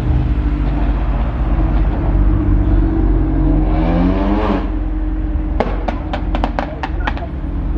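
Car engine revving, rising in pitch and falling back, then a rapid run of sharp exhaust pops and bangs.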